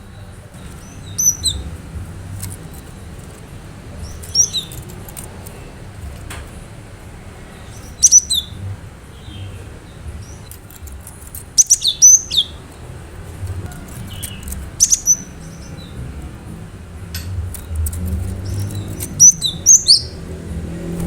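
Cinereous tit (gelatik batu) singing: short phrases of sharp, high notes repeated every few seconds, over a low steady hum.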